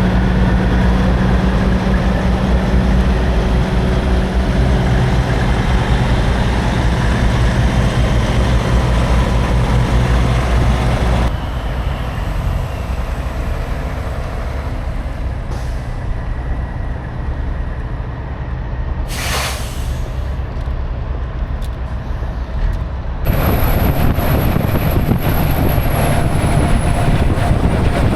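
Semi-truck diesel engine running steadily, with a short hiss of air, like an air-brake release, about two-thirds of the way through. The sound drops abruptly about 11 seconds in and jumps back louder near the end.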